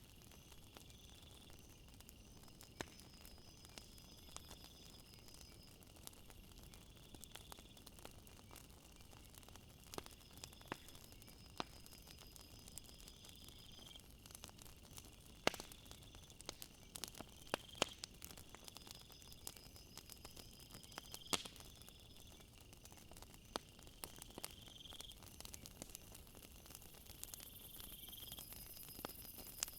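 Faint night ambience: crickets chirping in repeated high trills over a soft hiss, with scattered sharp crackles and pops from a campfire.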